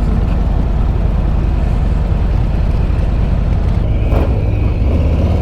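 2021 Harley-Davidson Road Glide Limited's Milwaukee-Eight 114 V-twin running steadily at riding speed, with wind noise on the lav mic. About four seconds in there is a brief rush of noise and the engine note changes.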